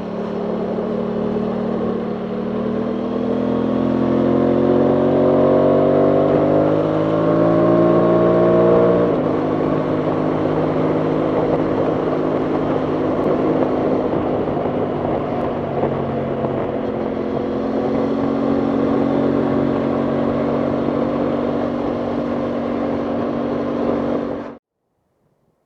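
Aprilia Tuono 660 Factory's parallel-twin engine rising in pitch as it accelerates, dropping sharply at a gear change about nine seconds in, then running at a steady cruise under wind noise on the microphone. The sound cuts off suddenly near the end.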